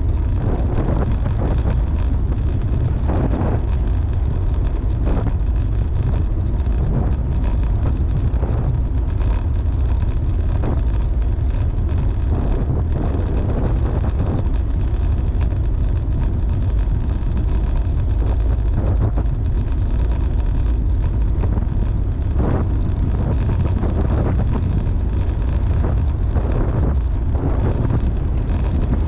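Wind buffeting the microphone of a camera riding on a moving road bicycle: a loud, steady low rumble with irregular brief swells.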